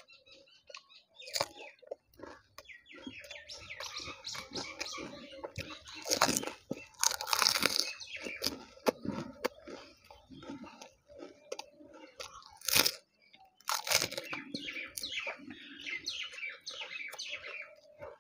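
Crunching and chewing of crisp, hollow fuchka (panipuri) shells eaten whole, close to the microphone. The crunching comes in irregular bursts, loudest about six to eight seconds in and again around thirteen and fourteen seconds.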